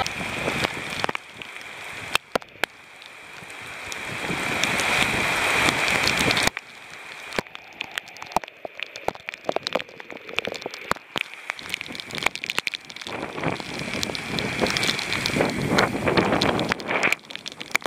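Rain shower falling, a steady hiss full of sharp drop impacts. It swells over the first few seconds, cuts off abruptly about six and a half seconds in, then goes on as an uneven patter.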